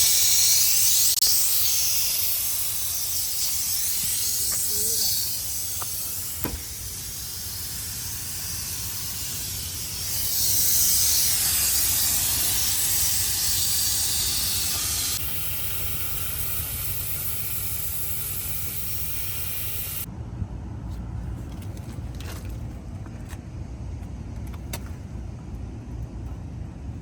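Pressurised gas hissing hard out of refrigeration pipework, as when lines are blown through or vented, changing in strength a couple of times and cutting off suddenly about 20 seconds in. A low rumble and a few faint clicks remain after it stops.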